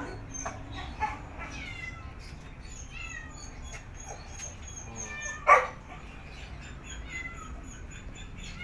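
A dog barks: a short bark about a second in and one loud bark about five and a half seconds in. Small birds chirp throughout.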